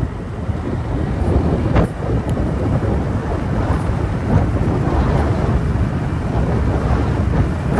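Wind buffeting the microphone of a moving motorbike, over the bike's engine and road noise, as a steady low rumble. A short sharp click just under two seconds in.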